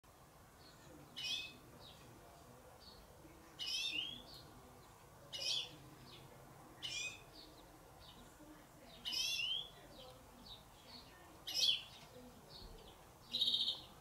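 A songbird giving a short, sweeping chirp call over and over, about every two seconds, seven times; the last call near the end is harsher and buzzier.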